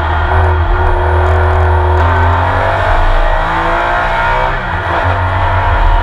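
Porsche 911 RSR's flat-six racing engine heard from inside the car, running hard under load. The revs rise and fall with gear changes, with a shift about two seconds in and another near five seconds.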